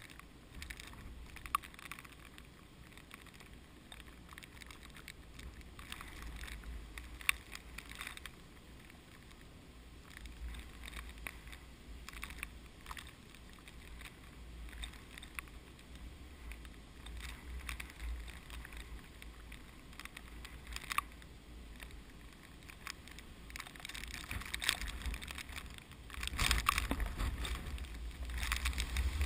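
Typhoon wind gusting and buffeting the microphone with a low rumble, over a faint crackling rustle, growing stronger near the end.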